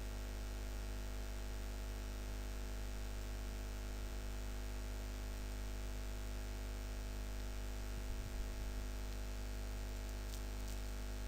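Steady electrical mains hum and hiss from the recording chain: a low buzz with many evenly spaced overtones under a faint hiss. There is a faint low bump a little past the middle and a faint tick near the end.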